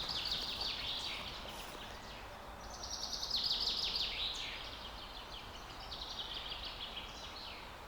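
A small songbird singing three rapid trills of high, quickly falling chirps, each about a second and a half long, over faint outdoor background hiss.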